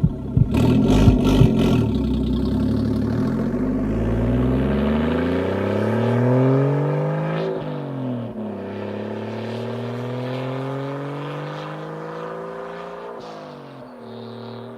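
BMW 335i's single-turbo N54 straight-six accelerating hard, its note climbing steadily and dropping sharply at two upshifts, about halfway through and near the end. A few sharp cracks come in the first two seconds.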